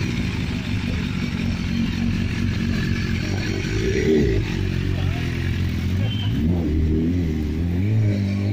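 BMW S1000RR's inline-four engine idling, with short throttle blips about four seconds in and again near the end.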